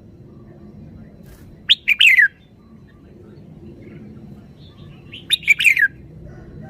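Red-whiskered bulbul singing two short phrases of quick notes sliding downward, about two seconds in and again about five seconds in.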